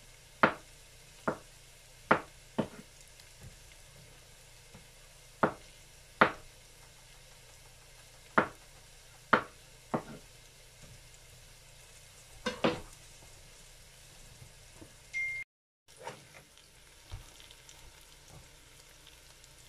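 Sliced onions frying in oil in a nonstick pan: a faint steady sizzle broken by sharp, irregular pops and crackles of spitting oil, most frequent in the first two-thirds.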